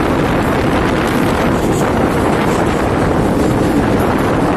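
A passenger train running through a rock tunnel, heard from an open coach door: a loud, steady rumble of wheels on rails, closed in by the tunnel walls, with wind noise on the microphone.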